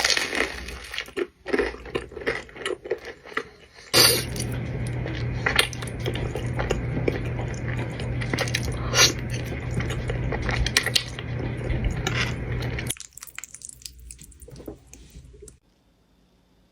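Close-up eating sounds: bites and chewing of cheesy food, made up of many sharp clicks and crackles. From about four seconds in, a steady hum and hiss lies under the chewing and stops suddenly near thirteen seconds. The sounds then thin to faint clicks and fall to near silence near the end.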